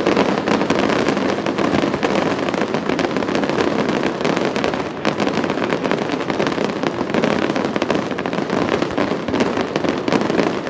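Fireworks finale: many shells bursting in quick succession, their bangs and crackles overlapping into a dense, unbroken barrage.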